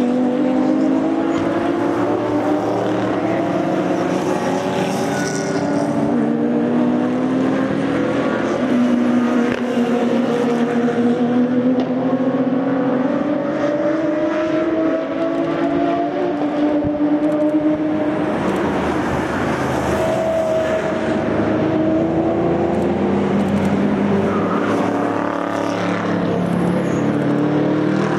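Several race cars with open exhausts running hard, their engine notes overlapping; each note climbs in pitch, drops at a gear change, and climbs again.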